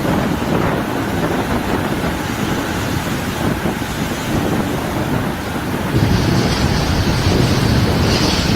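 Wind buffeting the microphone over rushing water, a dense steady rush with heavy rumble; it gets louder and hissier about six seconds in.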